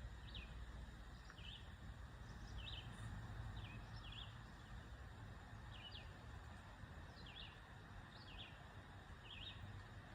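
A small bird giving short high chirps, repeated about once a second, some in quick pairs, over faint steady outdoor background noise.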